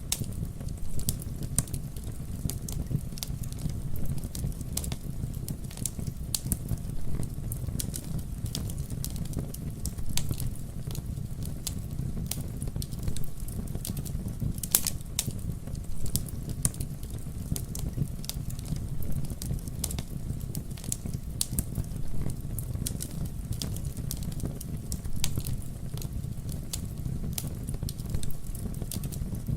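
Campfire burning steadily, with a low rumble of the flames under irregular sharp crackles and pops of the burning wood, several a second.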